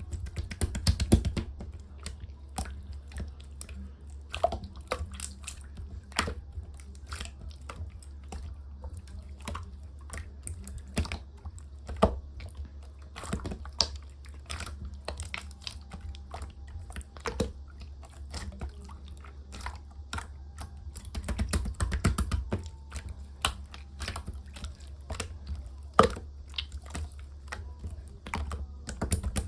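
Clear green slime being pressed and squeezed by hand, making many sharp wet clicks and small pops. The clicking comes in quick runs about a second in, about three-quarters of the way through, and again at the end, over a steady low hum.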